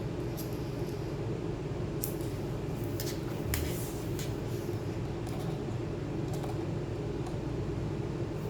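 A few small, sharp clicks and taps, clustered around the middle, over a steady low background hum.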